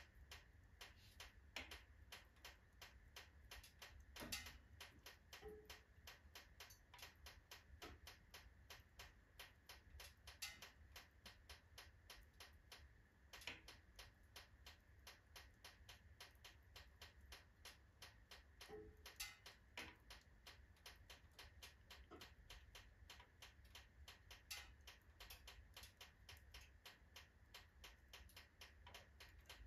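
Faint crackling of a wood fire in a fireplace stove, mostly burning oak logs: a dense run of small clicks, several a second, with a sharper pop every five or six seconds.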